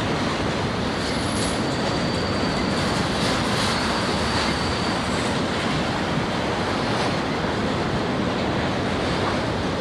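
A train rolling past at close range, with the steady noise of wheels on rail and a thin, high wheel squeal held for a few seconds in the first half.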